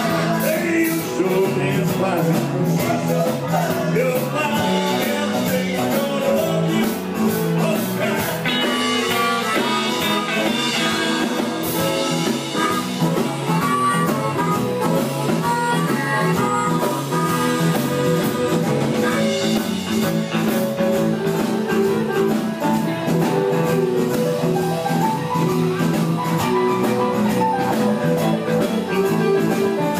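Live blues band playing: guitar over a drum kit with a steady beat.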